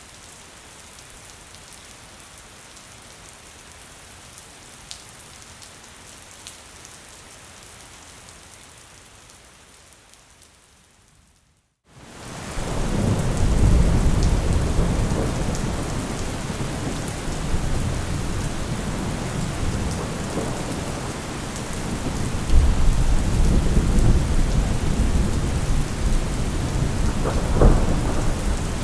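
Steady rain that fades out about ten seconds in; after a moment of silence a heavier downpour comes back in, with thunder rumbling low through it, swelling again near the end.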